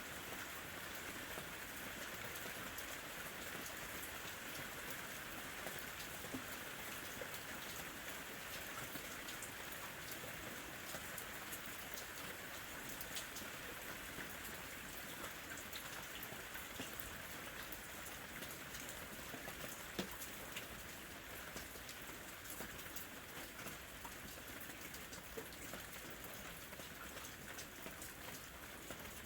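Steady light rain falling, with scattered individual drops tapping a surface; one louder drop tap about 20 seconds in.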